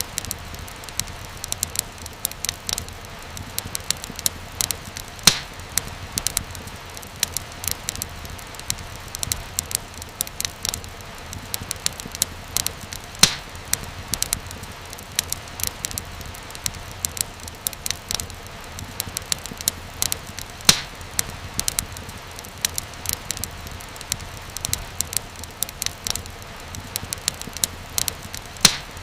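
Wood fire crackling in a fireplace: a steady low hiss of burning with frequent irregular snaps and pops, a few louder pops standing out.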